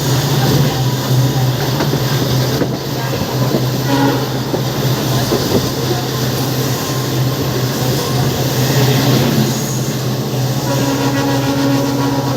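Twin WDP4D diesel locomotives' EMD two-stroke engines running under load as the train accelerates, a steady low drone over rolling noise, with some wheel clatter on the rails. A train horn sounds from near the end.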